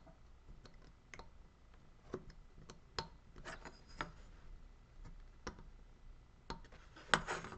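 Small carving tool working a wooden carving by hand: faint, irregular clicks and short scrapes of the blade on wood, with a burst of quicker scraping near the end.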